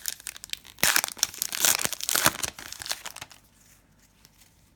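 A trading card pack wrapper being torn open and crinkled, a dense crackling that stops about three and a half seconds in.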